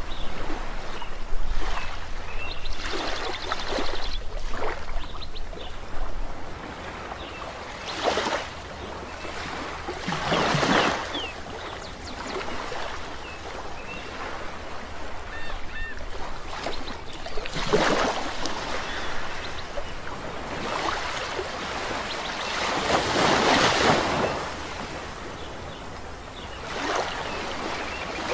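Sea waves washing onto a beach, each wave swelling and breaking a few seconds apart over a steady background wash of surf. Faint bird chirps come through now and then.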